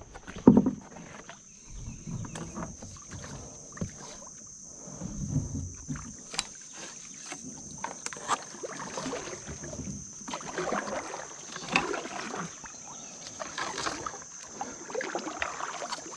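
Kayak paddle strokes splashing in the water at an irregular pace, with a loud thump about half a second in. A steady high insect buzz runs underneath.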